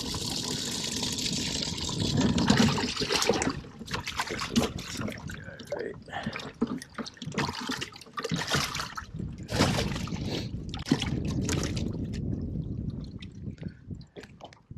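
Water trickling and sloshing in a boat's livewell, broken by irregular splashes and knocks as the fish are handled.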